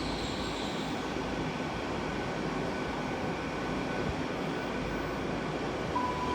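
GWR Class 802 bi-mode train, running on its underfloor diesel engines, giving a steady hum at the platform. Near the end a station public-address chime begins.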